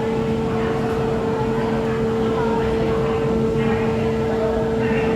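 Steady mechanical hum of the Ocean Express funicular train, carrying a constant mid-pitched whine and a lower tone, with faint voices of other riders now and then.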